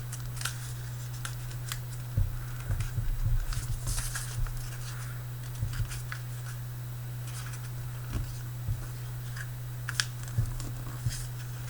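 A sheet of paper being handled and folded, with short scattered crinkles, taps and swishes as it is creased by hand. A steady low hum runs underneath.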